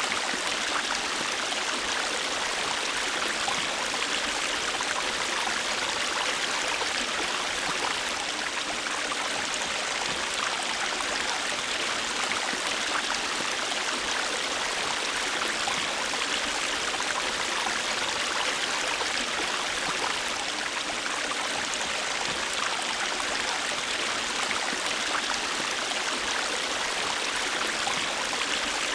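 River water flowing over rocks, a steady rushing and splashing that stays even throughout.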